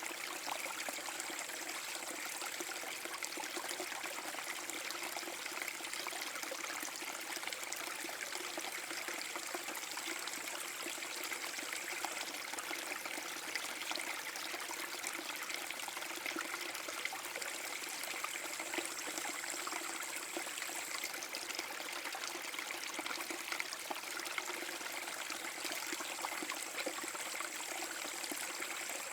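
Small forest brook waterfall: water flowing and trickling steadily, a continuous even splashing.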